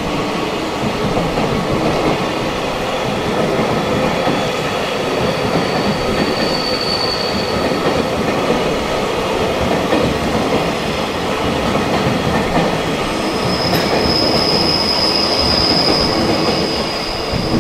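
JR Freight container train's wagons rolling past at speed on the rails, a loud steady rumble and rattle. A high-pitched squeal sounds briefly about six seconds in and again, louder, near the end.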